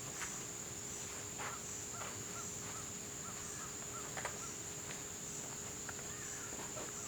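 Insects buzzing outdoors, one steady high-pitched drone, with a few small repeated chirps about two to four seconds in and a few light clicks.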